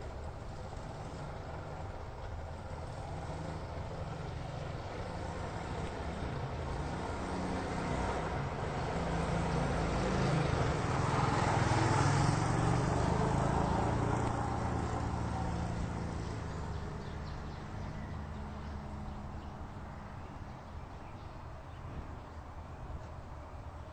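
Airplane flying overhead: its engine noise builds slowly, is loudest about halfway through, then fades away.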